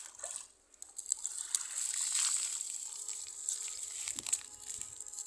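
Water splashing and sloshing as a cast net is worked in a canal.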